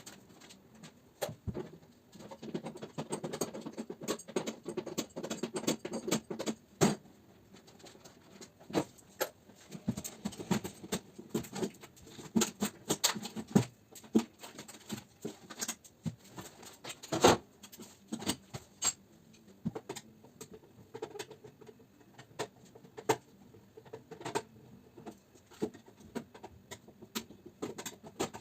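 Irregular clicks, small metal knocks and scraping from hand work taking apart air conditioner units for scrap, with several sharper knocks standing out.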